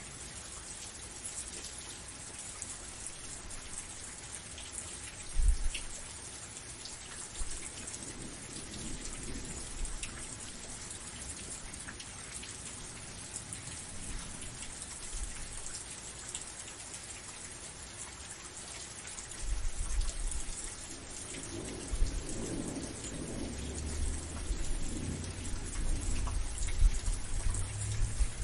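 Steady rain hissing, with a short low rumble about five seconds in and thunder rumbling low and rolling through the last third.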